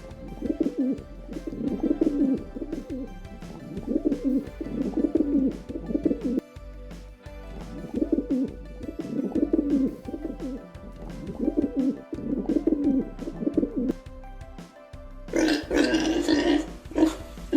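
Pigeon cooing in repeated low phrases every couple of seconds, over background music. Near the end a louder, rougher animal call takes over.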